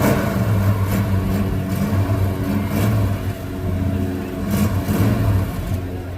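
V8 engine of a 1968 Shelby Mustang running at idle, a steady low rumble.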